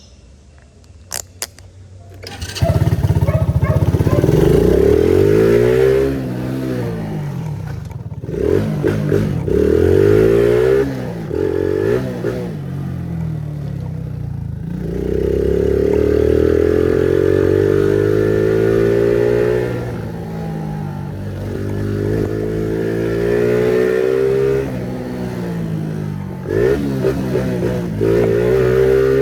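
Phoenix 50cc motorcycle engine, its exhaust fitted with an 'estralador' popper, revving hard over and over, the pitch climbing and falling in repeated sweeps. A few sharp clicks come about a second in, before the engine rises loudly.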